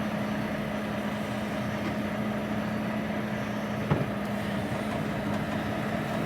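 HGV's diesel engine running steadily, heard from inside the cab as a low hum. A single short click about four seconds in.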